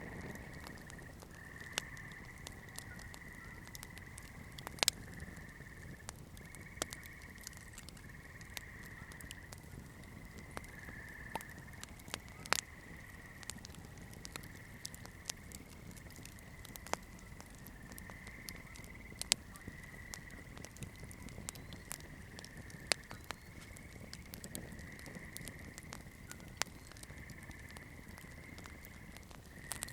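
Wood campfire crackling, with irregular sharp pops and snaps. A steady high-pitched trill runs in the background.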